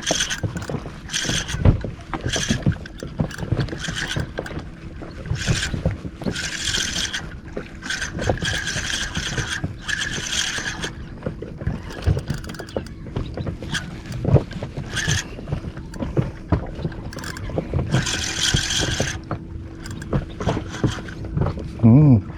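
Fishing reel being cranked in repeated bursts of about a second, with knocks and water noise around a small inflatable boat and a faint steady hum underneath.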